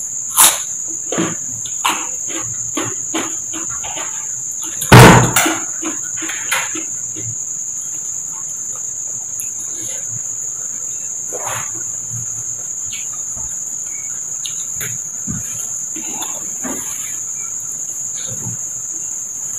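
Crunchy close-up chewing of raw cucumber, with one loud crunching bite about five seconds in and softer chewing clicks around it, thinning out later. A steady high-pitched insect drone runs underneath.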